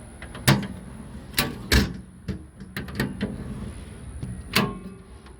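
Storage compartment doors and latches on a hunting truck being handled: a run of separate knocks and clicks, the loudest nearly two seconds in.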